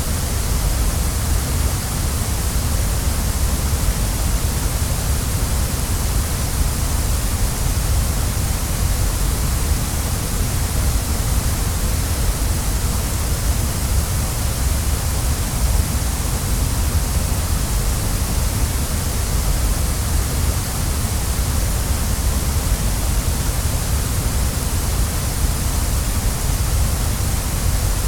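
Waterfall rushing: a steady, unbroken roar of falling water with a deep rumble underneath and a bright hiss on top.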